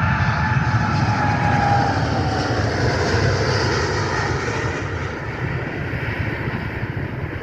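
Airplane passing by with its engines running: a loud rumble with a whine that drops in pitch, the noise slowly fading as it moves away.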